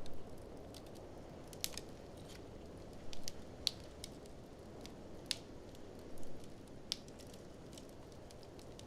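Wood fire crackling in a fireplace: sharp, irregular pops and snaps, a few louder ones, over a steady low rushing noise.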